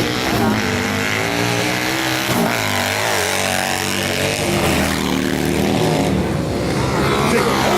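Several hooligan-class racing motorcycles running together, their overlapping engine notes rising and falling as the riders accelerate and back off, growing a little louder near the end.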